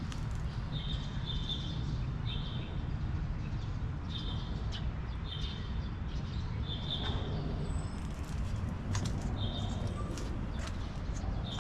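A small bird chirping over and over, short high calls about once a second, over a steady low rumble of background noise.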